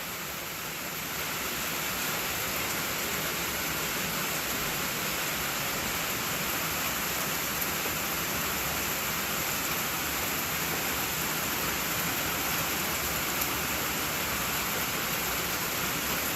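Steady rain falling, an even hiss that grows a little louder about a second in.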